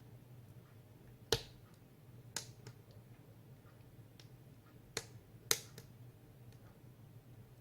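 Split firewood burning in a wood stove, crackling with scattered sharp pops, a few loud ones among many faint ticks, over a low steady hum.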